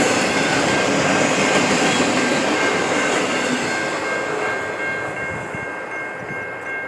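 Train cars rolling past on the rails, a dense steady rumble and rattle that fades over the last couple of seconds as the end of the train goes by.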